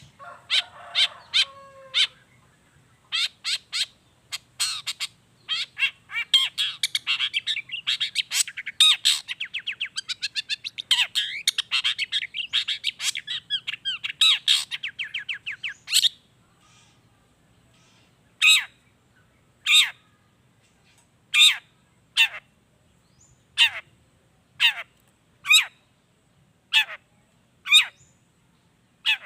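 Long-tailed shrike (cendet) singing: a fast run of sharp, chattering notes for about the first half, then single harsh calls spaced roughly a second apart.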